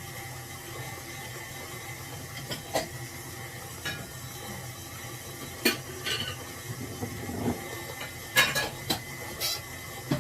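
A utensil clinking and scraping against a bowl as fresh butter is pressed to work out the whey: about six separate short clinks spread through, over a steady low hum.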